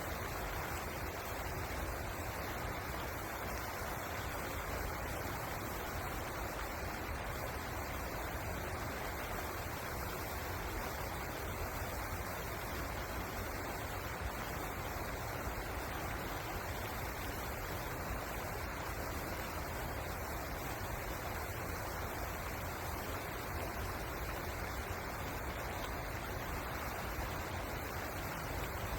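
River water rushing steadily, an even noise without breaks.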